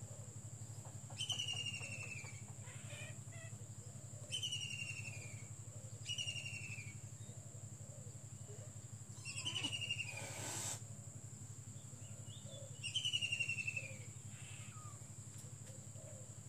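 A bird calling five times, each call a short, high, falling chirp, a few seconds apart, over a steady high thin whine and a low hum. A brief rustle about ten seconds in.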